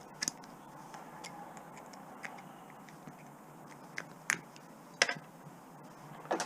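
A few separate sharp clicks and clinks of small metal scrap parts being handled: two close together at the start, then single clicks spaced about a second apart in the second half.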